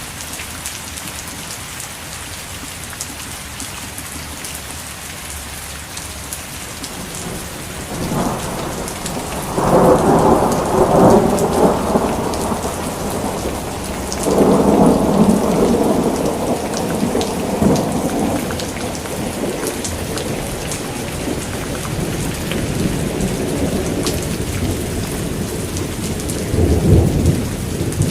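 Steady rain falling, with a long roll of thunder starting about a third of the way in that swells twice and slowly dies away, and another rumble of thunder near the end.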